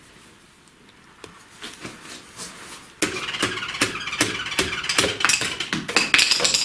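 A rapid series of sharp metal knocks and clatter from hand work on the engine during assembly, about three a second, starting about halfway in and growing busier near the end.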